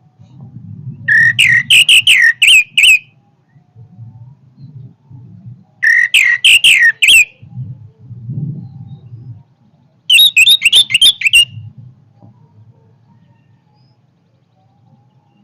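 Orange-headed thrush singing three loud phrases of quick, rising and falling notes, a few seconds apart.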